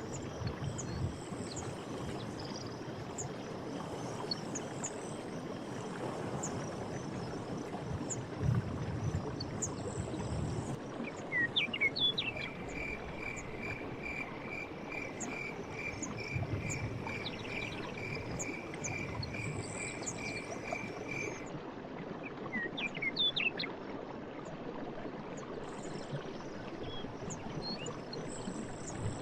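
Night forest ambience over a steady rush like water or wind, with insects chirping high throughout. For about nine seconds in the middle, a call repeats at roughly two notes a second, with short rising chirps just before and after it. A few dull low swells come and go.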